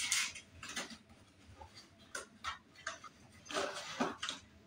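Small cardboard box being handled and opened, with the packaging inside being pulled out: a string of irregular light clicks, taps and rustles.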